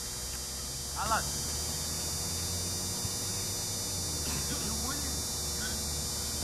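Steady low hum and hiss from the recording, with a brief, wavering high-pitched shout from across the pitch about a second in and faint distant voices later.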